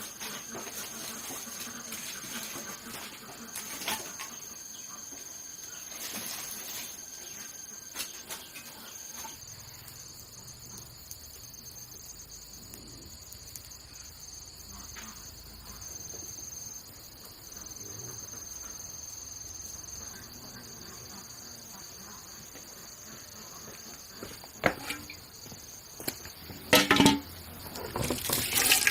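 Insects trilling in a steady high-pitched drone, with a few scattered clicks and knocks and a louder run of knocks near the end.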